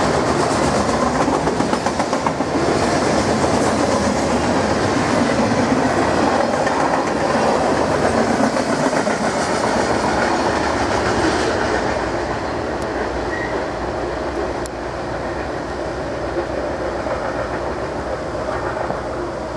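Freight train cars rolling past close by: a steady rumble with the clickety-clack of steel wheels over the rail joints. It grows quieter and duller a little past halfway, as the train moves away.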